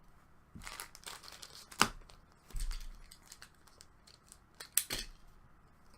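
Trading card packs and cards being handled: foil wrappers crinkling and tearing, with a few sharp snaps and slaps of card stock, the loudest about two seconds in and again near the end.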